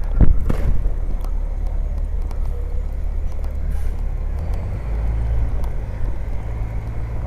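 A motor vehicle's engine running close by, a low steady rumble that grows fuller about four and a half seconds in, with a single sharp knock just after the start.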